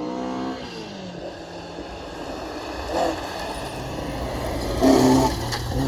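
Rally car engine on a gravel stage, its pitch sliding as it revs and changes gear, under a haze of tyre and gravel noise, with two louder blasts about three and five seconds in.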